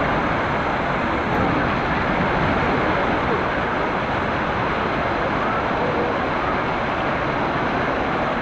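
Kuang Si waterfall's water rushing and crashing into its pools, a steady roar without change.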